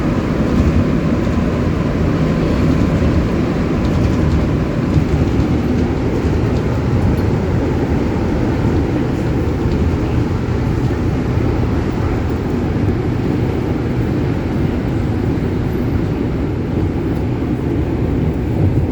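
Rubber-tyred MR-73 metro train running between stations, heard from inside the car: a steady, loud rumble of the train in motion.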